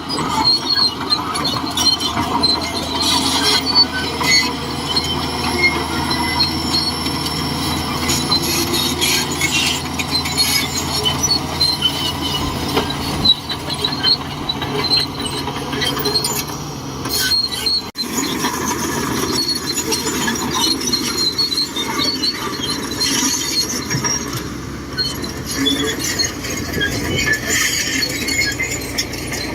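Shantui DH17C2 crawler bulldozer at work: diesel engine running steadily under a continuous metallic squeal and clinking from its steel tracks and undercarriage.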